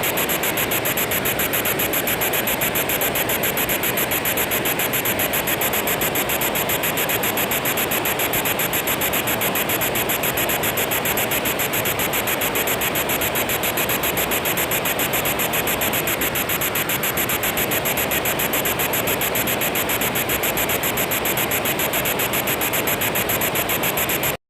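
Spirit box sweeping through radio frequencies: a steady hiss of static chopped into a fast, even pulsing, with no voices coming through.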